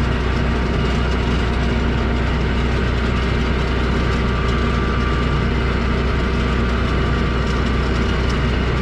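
Large diesel engine idling steadily, with a deep low hum.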